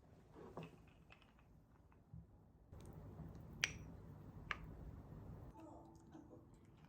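Two sharp clicks about a second apart over a faint rustling haze in a quiet small room.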